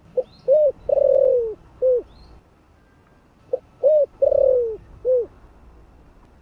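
Spotted dove cooing: two identical phrases about three seconds apart, each a short note, a rounded coo, a long falling coo and a last rounded coo.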